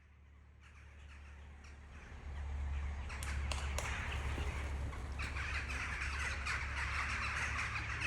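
Crows cawing over an outdoor bird ambience that fades in over the first two seconds or so, with a steady low hum underneath and a few sharp clicks near the middle.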